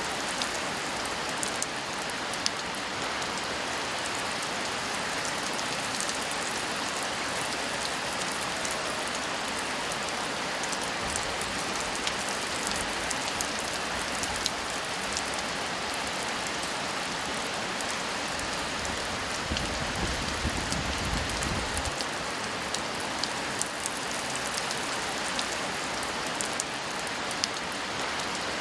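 Steady rain falling: an even hiss with many sharp drop ticks striking a surface.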